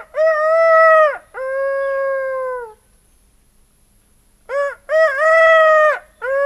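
A man imitating a cock's crow with his voice, twice: each crow a short clipped note followed by long drawn-out notes that drop in pitch as they end.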